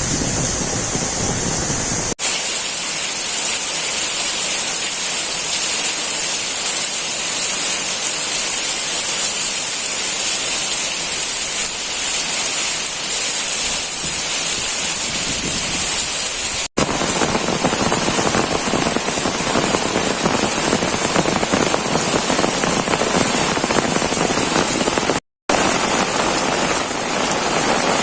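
Heavy rain falling steadily, an even hiss. The sound breaks off for an instant about 2 s and 17 s in, and for about a quarter of a second near 25 s, changing its balance at each break.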